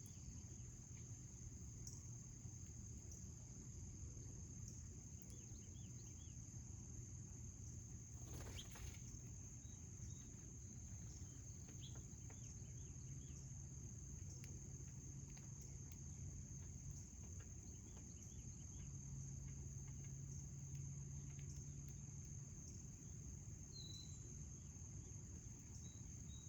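Faint garden ambience of crickets trilling in one steady high note, over a low steady hum. A few soft bird chirps come through now and then, and there is a brief noise about eight seconds in.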